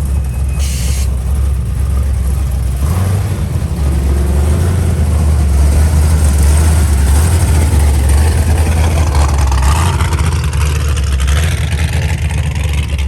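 Car engine running with a steady low rumble, rising in pitch about three quarters of the way through as it accelerates.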